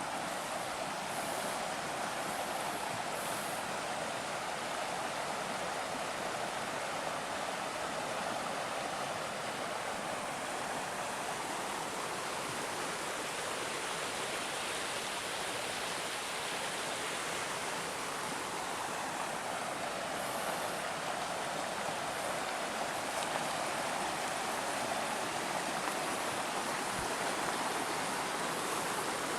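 Steady rushing of water flowing along an irrigation canal, an even hiss that thins a little about halfway through and then fills back out.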